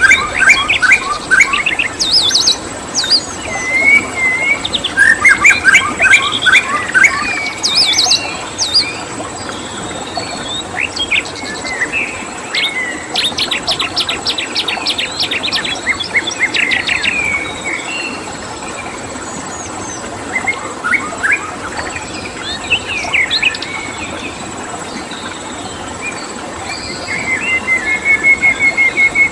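Several songbirds chirping and trilling in a busy mix of short, varied calls, including a rapid run of chirps in the middle. A steady hiss and a constant thin high tone run beneath them.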